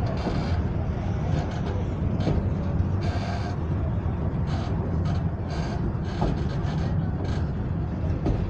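Passenger train running along the track, heard from on board: a steady low rumble of wheels on rails, with short irregular bursts of higher hissing noise.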